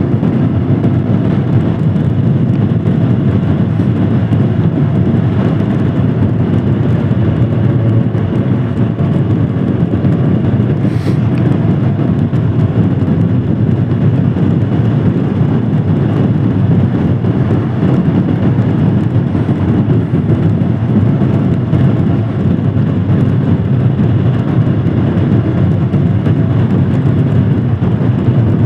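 Royal Enfield Himalayan Scram 411's single-cylinder engine running steadily while the motorcycle is ridden at an even pace. A brief click sounds about eleven seconds in.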